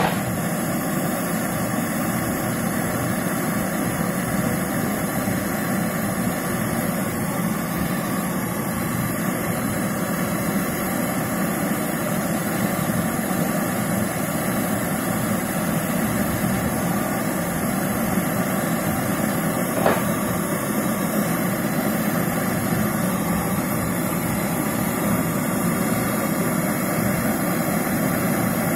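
Gas brazing torch flame hissing steadily while the charging line of a refrigerator's compressor is brazed, with one brief click about twenty seconds in.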